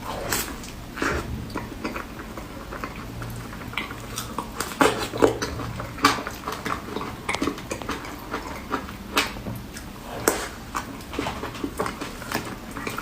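Close-miked mouth sounds of a person eating cake: irregular soft bites, wet chewing and lip smacks, with sharp clicks every fraction of a second.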